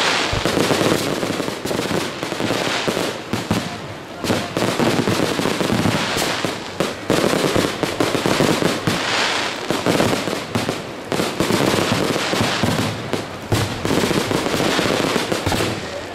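Fireworks display: aerial shells and effects going off in quick succession, a dense, unbroken run of bangs and crackles.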